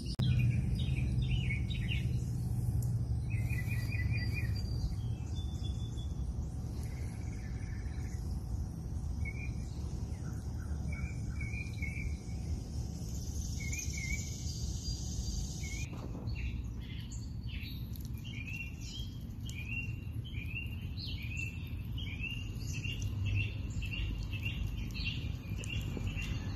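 Small birds chirping in short repeated calls over a steady low rumble; a little past halfway the chirps change to a quicker run, about two a second.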